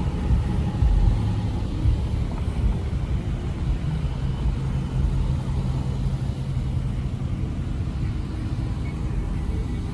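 Low, steady rumble of a car running, with a steady engine hum that comes in about four seconds in and fades after a few seconds.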